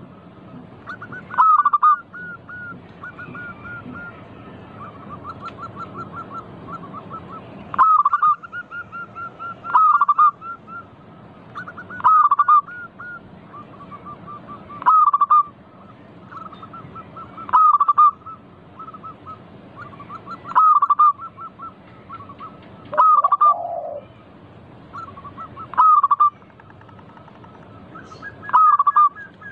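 Local zebra doves (perkutut) cooing: a loud short call repeats about every two to three seconds, about ten times, with softer runs of quick repeated notes in between. The effect is of doves calling and answering one another.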